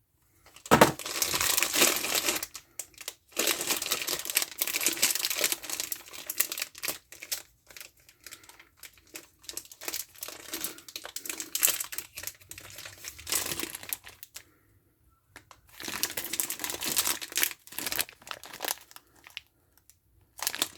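Plastic bag of candies crinkling and rustling as it is handled and opened, in irregular spurts with short pauses.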